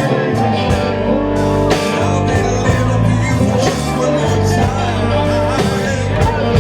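A live blues band playing, with guitar over a steady beat.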